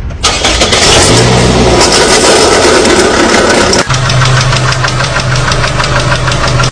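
Car engine running with a fast, even knocking, an abnormal mechanical noise. The sound changes abruptly a little under four seconds in, and a steady low hum joins the knocking.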